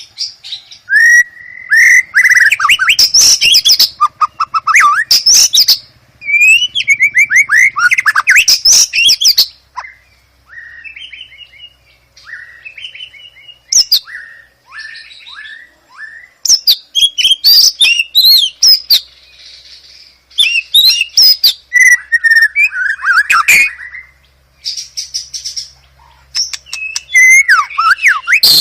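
White-rumped shama (murai batu) singing a varied song of loud phrases: sweeping whistles, rapid chattering note trains and trills, broken by short pauses. Softer, scattered notes fill a quieter stretch near the middle.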